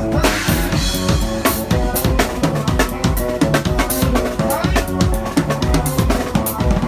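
Live band playing uptempo soca music: a drum kit drives a fast beat with kick and snare, under bass and keyboard lines, with a cymbal crash at the start.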